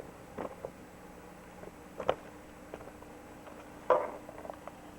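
Quiet indoor room tone with a steady low hum, broken by a few soft clicks and taps, the clearest about half a second, two seconds and four seconds in.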